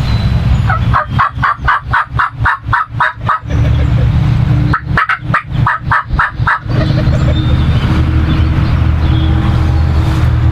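Two series of turkey yelps, the first about ten notes long and the second about seven, at roughly four notes a second. A steady low rumble runs under them and carries on after they stop.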